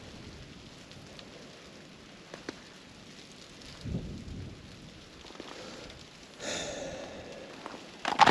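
Light, steady pattering and ticking of ice in ice-coated trees, with a louder crunch about four seconds in and another at about six and a half seconds.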